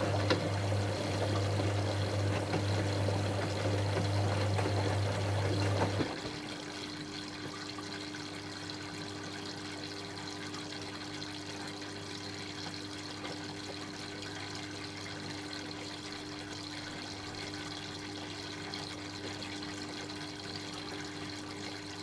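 Dyson Contrarotator CR01 washing machine with water rushing through it and a steady low electrical hum, which cut off together about six seconds in. After that only a faint steady hum and trickle remain.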